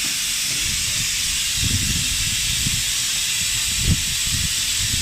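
A steady, loud hiss of a jet of air or gas in a workshop, with irregular low knocks and rumbles underneath.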